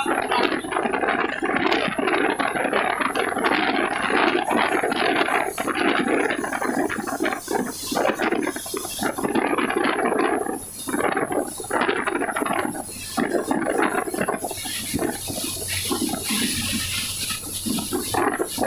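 Heavy rain and wind on a truck: a loud, dense, uneven rush of water noise with a thin high whine above it.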